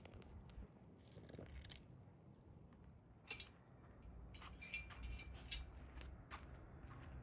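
Faint, irregular crackles and ticks from a hardwood ember fire.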